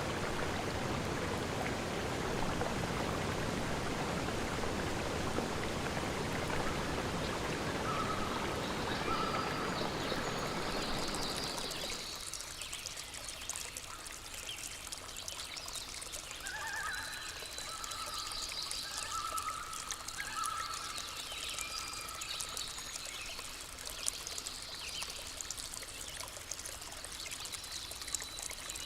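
Running water from a stream, a full, even rush for about twelve seconds. It then switches abruptly to a thinner trickle with short, repeated animal calls over it.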